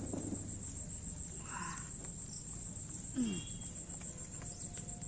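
Insects, crickets by the sound, trilling steadily at a high pitch, with a few faint knocks and a short falling squeak about three seconds in.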